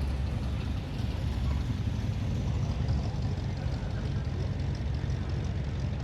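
Steady low engine rumble of running cars, with faint voices in the background.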